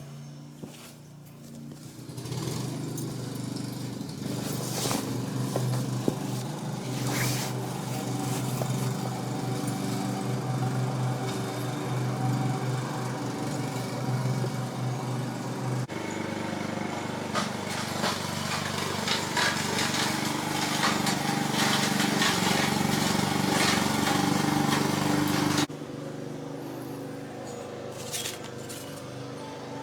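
A motor running steadily, with a few sharp knocks over it; the sound changes abruptly about halfway through and again near the end.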